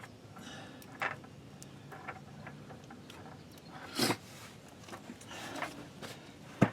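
Small metal parts and hand tools being handled while the parking brake is assembled: faint scraping with a few sharp clicks, the loudest about four seconds in and another near the end.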